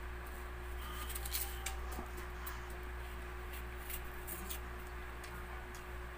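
A person chewing apple close to the microphone: irregular small mouth clicks and chewing noises over a steady low hum.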